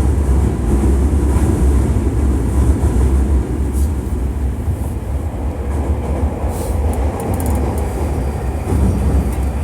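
Hankyu 1300 series electric train heard from inside the car, running through a subway tunnel: a steady low rumble of wheels on rail with some faint clicks. The level eases slightly partway through.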